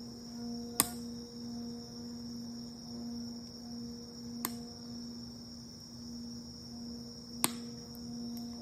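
Singing bowl ringing with a steady low hum that wavers slowly in loudness, over a steady high chirring of crickets. Three sharp single pops of the bonfire, about a second, four and a half seconds and seven and a half seconds in.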